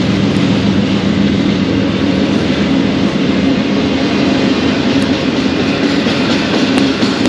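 Freight train passing: the steady drone of diesel locomotives working, over the noise of wheels rolling on the rails.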